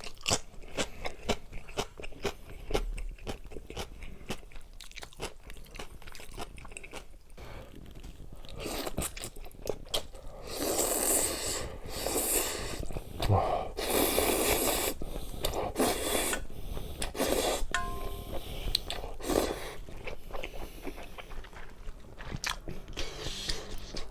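Close-miked eating: a person chewing and crunching food with many small clicks, louder and more hissing for several seconds in the middle.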